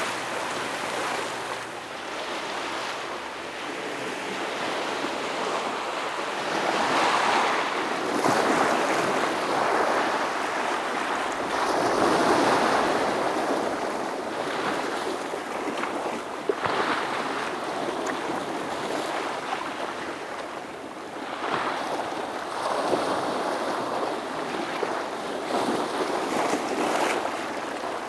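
Ocean waves breaking against a rocky shore, a continuous wash that swells into a fresh break every few seconds and ebbs between them. The loudest break comes around the middle.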